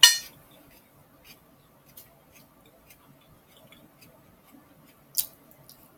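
Close-miked eating sounds from chewing a soft burrito: a wet mouth smack at the start, faint small mouth clicks while chewing, and a second short sharp click about five seconds in.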